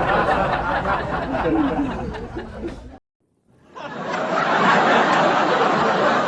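A crowd laughing and chattering that cuts off abruptly about three seconds in; after a short silence, another clip of crowd chatter and laughter rises in and carries on.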